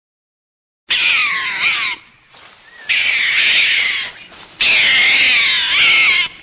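An animal calling loudly three times, each call about a second long and wavering in pitch, beginning about a second in.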